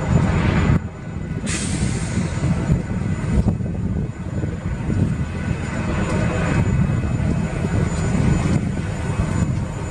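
Union Pacific diesel locomotive working at low speed as it shoves covered hopper cars, its engine a steady low rumble mixed with the noise of the cars' wheels rolling on the rails.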